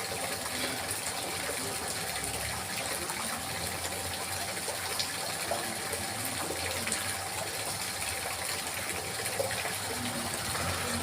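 Running water babbling steadily, an even rush with small splashes and drips scattered through it.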